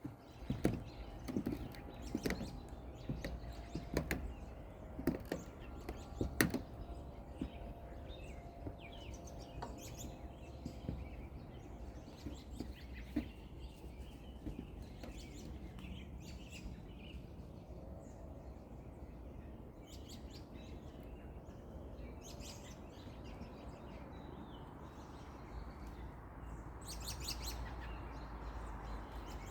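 Small birds chirping on and off, with several sharp knocks or clicks in the first few seconds over a steady low outdoor rumble.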